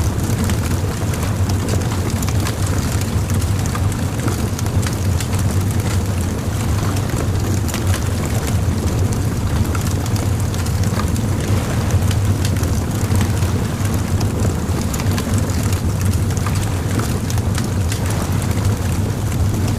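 Bonfire crackling, with many small irregular pops and snaps of burning wood, over a steady low rumble.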